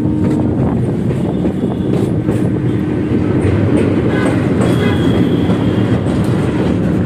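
Kolkata suburban electric (EMU) local train running, heard from its open doorway: a steady rumble of wheels on the rails with faint clickety-clack, as it crosses a steel girder bridge.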